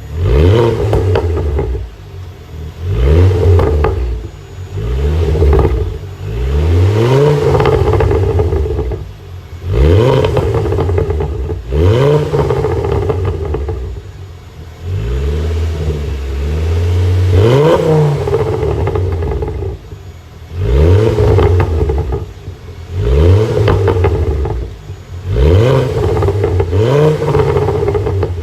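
Ford Focus XR5's turbocharged 2.5-litre five-cylinder engine revved in repeated quick blips, about one every two to three seconds. Each rise in revs is followed by exhaust crackle as the revs fall away.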